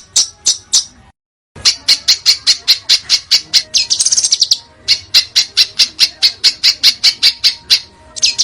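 Songbird giving a rapid series of harsh, sharp, high-pitched shrieks, about four or five a second. The calls cut off abruptly for about half a second about a second in, then resume.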